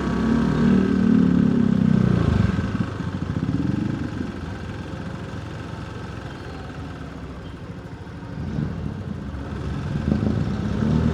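Motorcycle engine running in street traffic, loud with a strong engine note for the first two seconds, then dropping in pitch and level to a lower steady hum, and rising again near the end.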